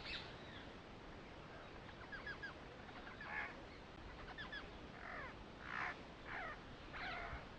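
Birds calling faintly: small groups of quick, short chirps, and several louder, harsher calls every second or so.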